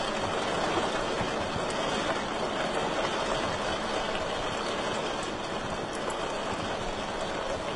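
Wood fire in a fireplace burning with a steady rushing hiss and a few faint, scattered crackles.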